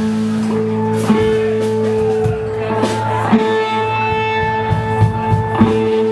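Live amplified band music: long sustained notes ringing over one another, with a few sharp drum or cymbal hits.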